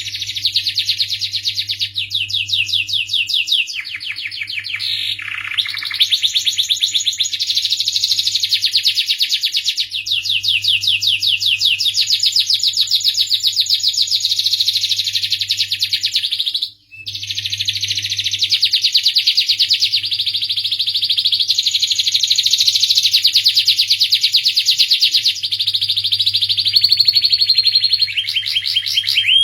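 Domestic canary singing a long, almost unbroken song of rapid trills and rolling phrases, with a brief break a little past halfway. A faint steady low hum runs underneath.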